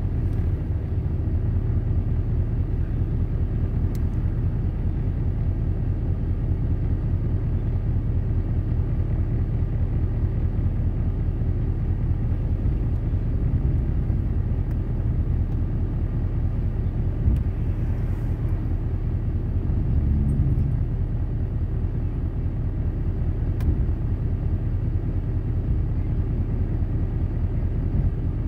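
Car engine running, a steady low hum heard from inside the cabin.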